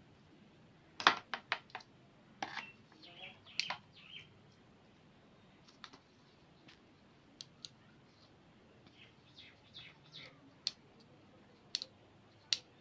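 Scattered sharp clicks and taps. There is a quick run of four about a second in, a busier cluster soon after, and single clicks spread through the rest.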